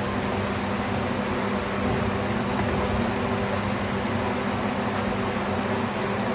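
Steady mechanical hum, like a running fan or motor, with a constant low tone and an even hiss.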